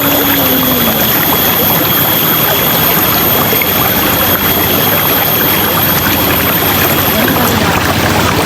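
River water flowing with a steady, loud rush.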